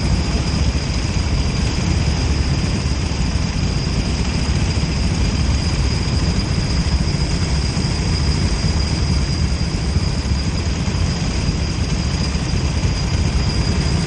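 Go-kart engine idling steadily, with a thin steady high whine over it.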